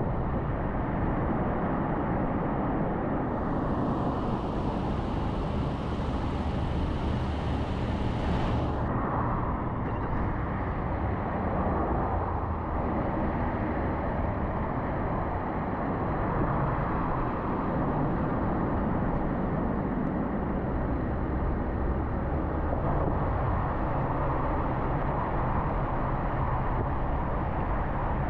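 Steady tyre and engine noise of a car cruising on an interstate highway. A higher hiss joins for about six seconds a few seconds in.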